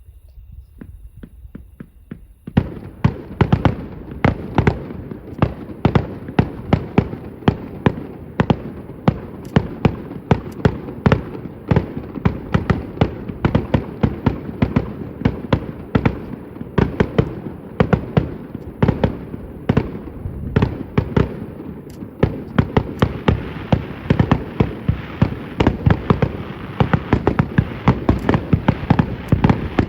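Fireworks display: a rapid barrage of aerial shell bursts, several bangs a second, starting about two and a half seconds in and growing denser near the end.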